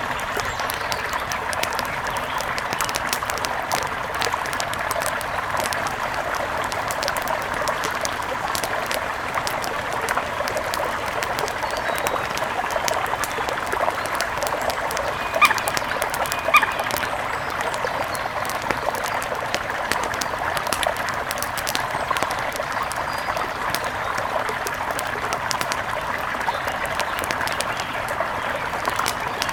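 Nature ambience of a steady rush of running river water, with many faint scattered ticks and two short bird or duck calls about halfway through.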